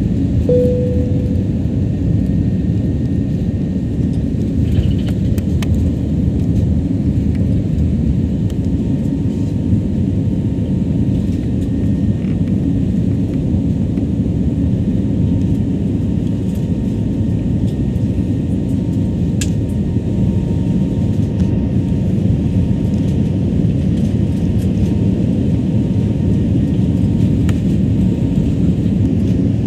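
Steady cabin noise of a jet airliner in flight: engine and airflow noise, deep and even, with a short single tone about half a second in.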